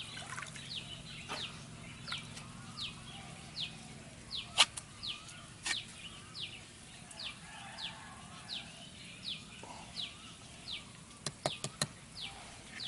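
A bird repeating a short, high, falling call note about every three-quarters of a second. Sharp taps sound now and then, several in quick succession near the end.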